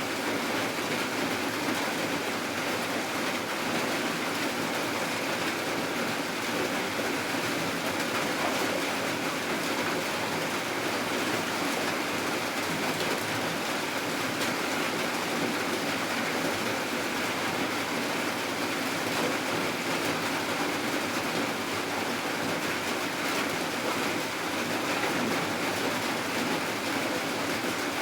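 Steady rain falling at night, an even hiss that holds without breaks or changes.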